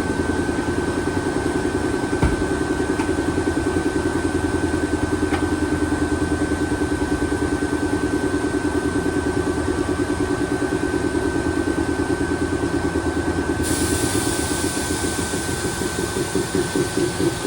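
Stationary Kotoden electric train's onboard machinery running: a fast, even pulsing hum with a steady high whine over it. A hiss joins about fourteen seconds in.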